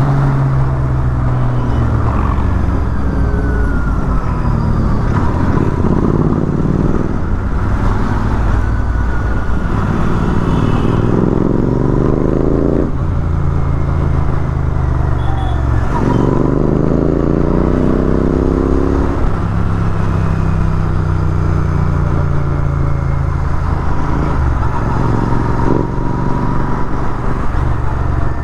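Royal Enfield Continental GT 650's parallel-twin engine pulling on the move, its pitch climbing and breaking off at each gear change three times, over steady wind noise.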